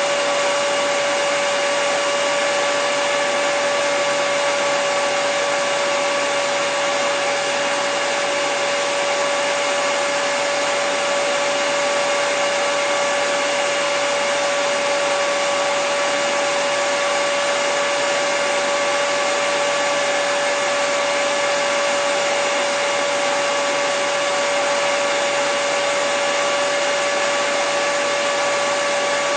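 Hair dryer running continuously at a steady speed: an even rushing of air with a steady motor whine, unchanging throughout.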